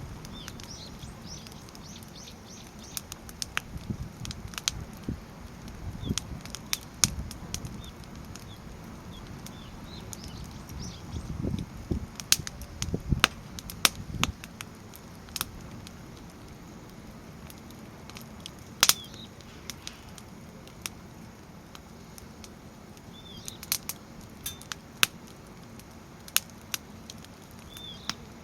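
Firewood burning in a log-cabin stack on a Snow Peak fire stand: scattered sharp crackles and pops over the low flutter of the flames, thickest about halfway through, with one louder pop near the end.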